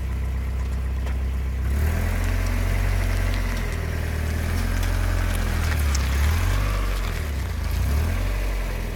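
A 1994 Mazda Miata's 1.8-litre four-cylinder engine and exhaust running at low speed as the car turns into a driveway, with a few faint clicks from the front end around the middle. The clicking is an undiagnosed front-end noise that comes up when turning into driveways.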